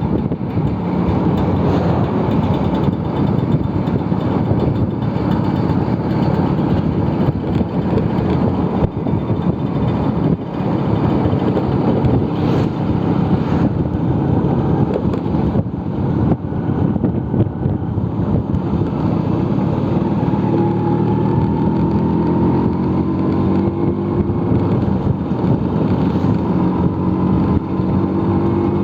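Vespa scooter engine running under way, with wind rushing over the microphone. About two-thirds of the way through, the engine note rises steadily as the scooter speeds up.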